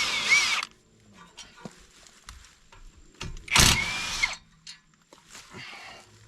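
Impact wrench run in two bursts of about a second each, the second about three and a half seconds in, its motor whine rising and falling with each pull of the trigger. It is spinning out the brake caliper and caliper bracket bolts.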